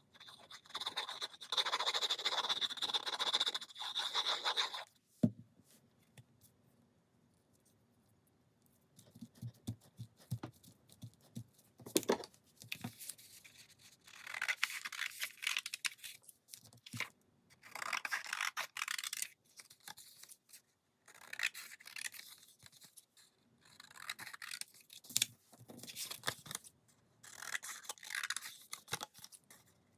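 Scrapbook paper rubbed and smoothed by hand over glued chipboard, in repeated scratchy brushing strokes with pauses between, plus a couple of sharp clicks. The longest and loudest rubbing comes near the start.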